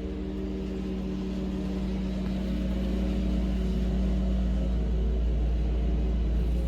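Lawn mower engine running steadily, growing louder over the first few seconds.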